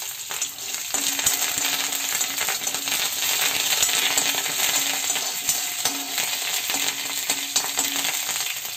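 Dried red chillies and curry leaves sizzling in hot oil with mustard seeds and dals, a South Indian tempering (popu) frying in a kadai. A spatula stirs the tempering, with small scrapes and clicks against the pan.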